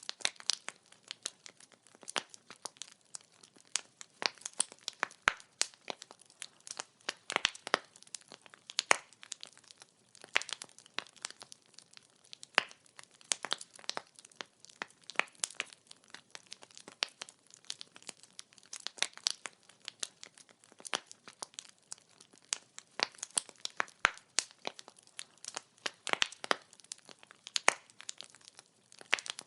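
Wood fire burning, its logs crackling with dense, irregular pops and snaps over a faint hiss.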